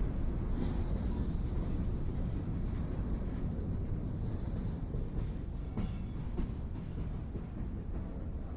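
A train rolling along the track: a steady low rumble of wheels and cars that slowly grows quieter.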